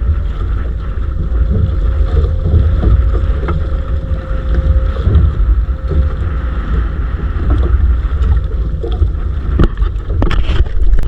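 Wind buffeting the microphone on a small fishing boat at sea, a loud steady rumble, with a faint steady hum for the first few seconds and a few knocks near the end.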